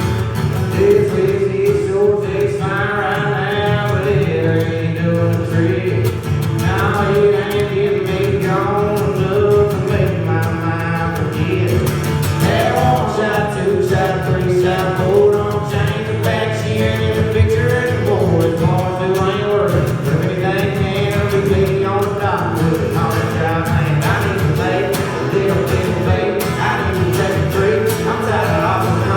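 Live country music: a band with guitars playing while voices sing over it, the singing coming in a few seconds in.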